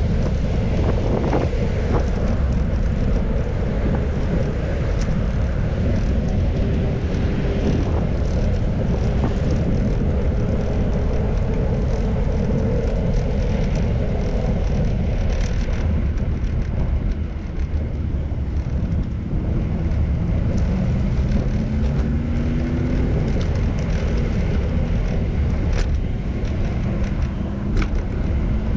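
Steady wind rush on the microphone and traffic noise while riding a bicycle on city streets. About two-thirds of the way through, a passing vehicle's engine rises in pitch as it accelerates.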